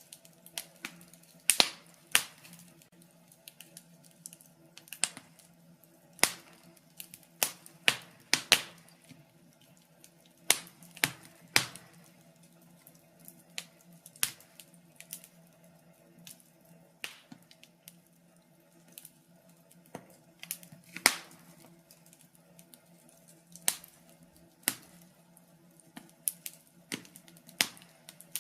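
Wood fire crackling in a fireplace: irregular sharp pops and snaps at uneven intervals, some much louder than others.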